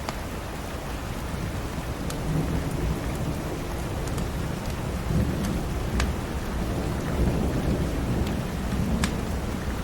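Steady rain with a low rolling rumble of thunder that swells in about two seconds in and lasts nearly to the end. A few sharp crackles from a wood fire in a fireplace pop out here and there.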